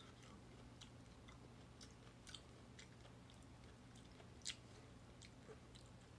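Faint mouth sounds of a person chewing a piece of corn with his mouth closed: scattered soft clicks, the clearest about four and a half seconds in, over a low steady hum.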